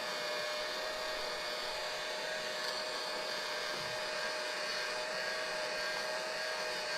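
Electric heat gun running steadily on its low setting, a constant blower whir with a fixed whine, heating a part of a hydraulic lift cylinder to loosen it.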